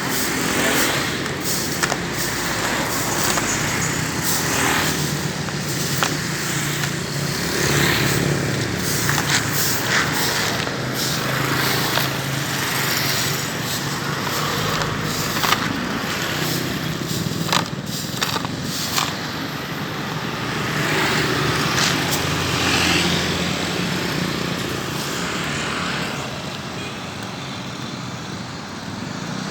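Road traffic: cars and motorcycles running past, with scattered sharp knocks and clatters through it.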